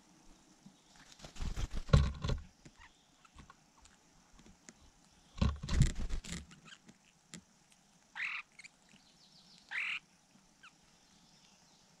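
Two bouts of rustling and bumping noise a few seconds apart, then two short bird calls about a second and a half apart at a nest with a begging nestling.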